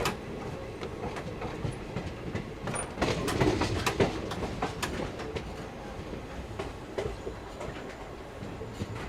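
Moving passenger train heard from aboard a coach: steady running rumble with wheels clacking over rail joints, the clacks coming thickest and loudest about three to five seconds in.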